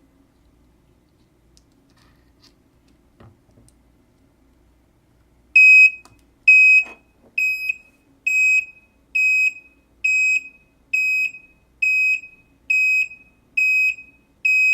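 Reverse-warning buzzer on a 555-timer circuit, beeping a steady high tone about once a second. The beeping starts about five and a half seconds in, after a few faint clicks.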